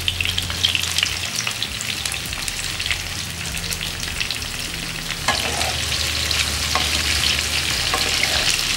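Salted, squeezed bitter gourd slices frying in hot oil in a nonstick pan: steady sizzling and crackling, a little louder from about five seconds in. A few light knocks near the end as a wooden spatula stirs the slices.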